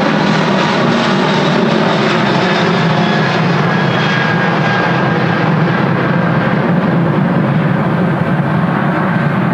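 Airbus A380's four jet engines at takeoff power: a loud, steady rumble whose high hiss slowly dies away.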